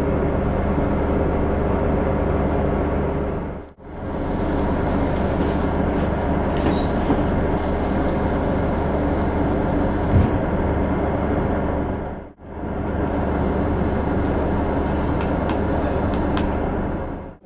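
Steady hum of a passenger train carriage heard from inside, with a few low tones held under an even rumble. The sound briefly fades out and back in twice.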